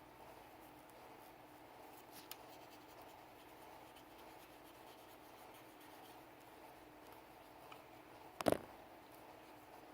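Soft rubbing and scratching while a Sig Sauer P320 pistol is cleaned, with a couple of faint ticks and one sharp clack about eight and a half seconds in.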